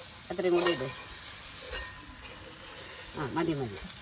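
Onions, green chillies and spice masala sizzling as they fry down in a metal pan, stirred and scraped with a wooden spatula. Two brief bits of voice come over it, about half a second in and again near the end.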